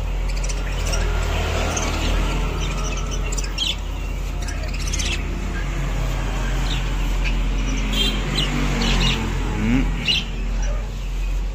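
Small cage birds chirping, with scattered short high calls every second or so over a steady low hum.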